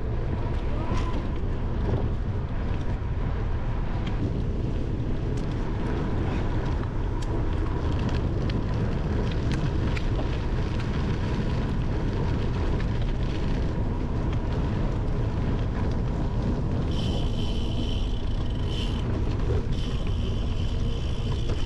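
Wind rushing over a handlebar-mounted camera's microphone while riding a bicycle, with tyre rumble and light rattles from rolling over the gravel and dirt trail. Near the end a high buzzing comes in twice for a second or two.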